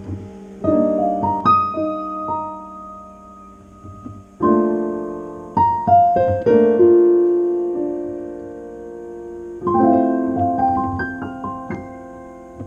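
Piano music: slow chords and single notes struck and left to ring out and fade, with fresh chords about a second in, around four and a half seconds in, and near ten seconds in.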